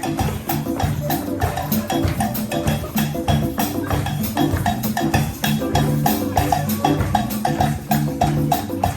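Live dance music driven by Congolese percussion: a fast, steady beat of drum and wood-block-like strokes over low bass notes.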